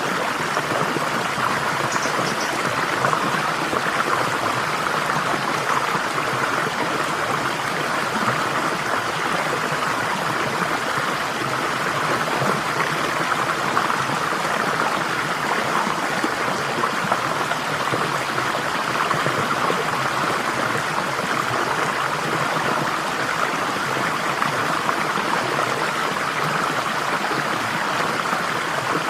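Water flowing steadily in a stream, an even rushing and trickling without pause.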